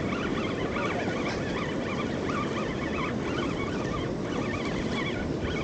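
Steady rush of ocean surf and wind on the beach, with many short, high chirping calls scattered over it.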